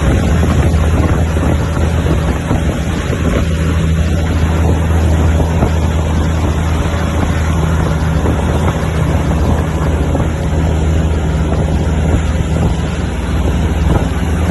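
Heavy truck's diesel engine running steadily as the truck pulls uphill, a constant low drone with a rumbling haze over it, and wind on the microphone.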